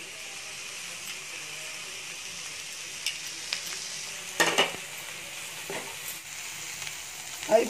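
Green beans stir-fry sizzling steadily in a kadai while a steel spoon stirs it, scraping and clinking against the pan a few times, loudest about four and a half seconds in.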